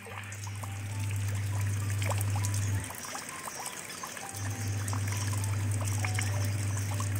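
Rain falling on shallow running water over pebbles: a steady wash of trickling water with many small drip and splash ticks. A deep steady hum sits under it, stopping about three seconds in and coming back a second and a half later.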